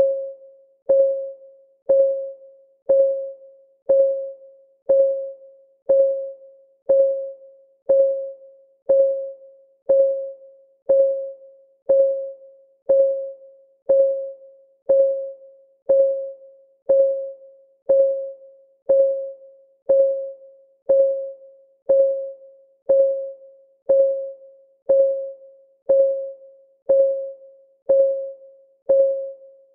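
Clock ticking sound, one tick every second at an even pace. Each tick is a short pitched knock that dies away quickly.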